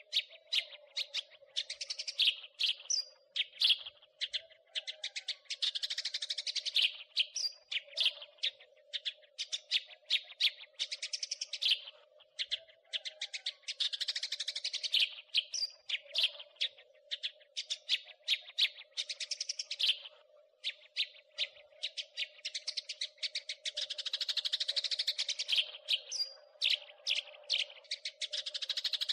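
House sparrows chirping in a rapid, unbroken chatter of short, sharp chirps, thickening into dense bursts of chattering every few seconds.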